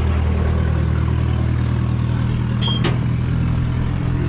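Diesel truck engine idling with a steady low hum. A brief high chirp and a click come about two and a half seconds in.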